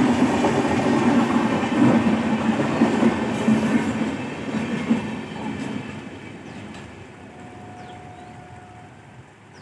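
LHB passenger coaches of an express train rolling past on the rails with a steady wheel-on-rail rumble, which fades away after about four seconds as the tail of the train passes and recedes.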